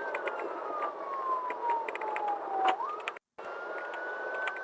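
Patrol car siren wailing in slow rising and falling sweeps over steady road noise at high speed, with scattered clicks. The sound cuts out completely for a moment a little after three seconds in.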